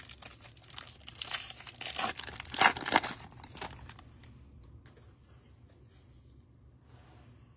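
Trading-card pack wrapper being torn open and crinkled: a run of rustling, crackling tears over the first four seconds, loudest about three seconds in, then only a few faint crinkles.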